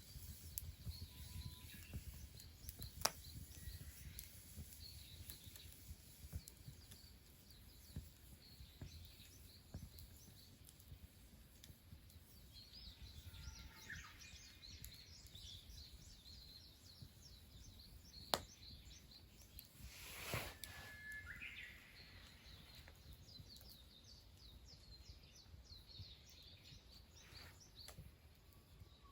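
Small birds chirping faintly in the distance over a low background rumble, with two sharp clicks and a brief rustling burst about two-thirds of the way through.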